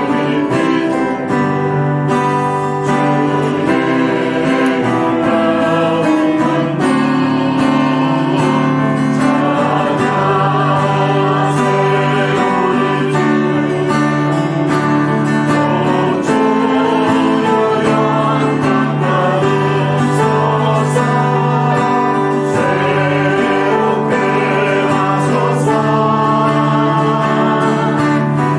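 A church praise team singing a worship song with guitar accompaniment.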